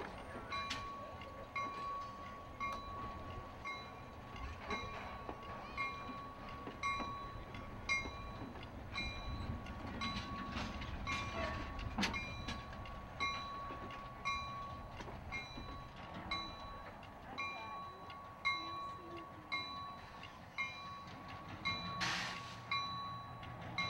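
A diesel locomotive's bell rings steadily, about three strokes every two seconds, as a slow passenger train rolls past with its wheels clicking on the rails. A short hiss comes near the end as the locomotive draws up.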